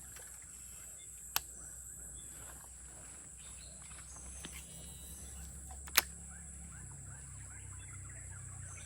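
Steady high-pitched drone of insects, with two sharp clicks, about a second and a half in and again at six seconds, the second louder.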